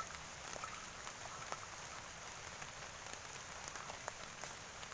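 Rain falling steadily, with scattered drops ticking sharply on nearby surfaces.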